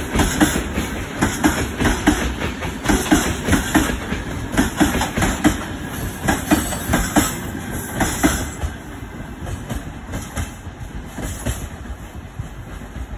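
Freight train's open-top wagons rolling past, their wheels clattering rapidly over the rail joints. The clatter grows fainter over the last few seconds as the end of the train moves away.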